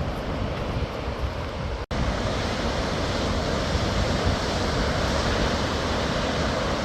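Steady rush of ocean surf and wind, with wind rumbling on the phone's microphone. It cuts out for an instant about two seconds in.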